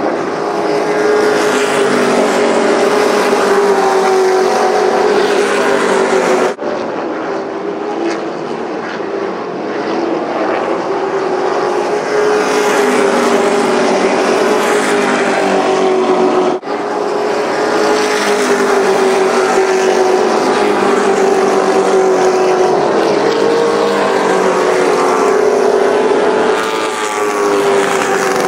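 Field of super trucks racing on a short oval: many engines under throttle at once, making a loud, steady drone whose pitch slowly swells and falls as the pack circles. The sound breaks off briefly twice, about six and a half and sixteen and a half seconds in.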